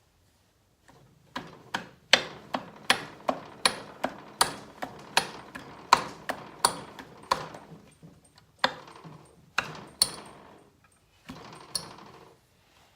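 Hand tool working on metal motorcycle parts: a steady run of sharp metallic clicks, about three a second, pausing briefly twice.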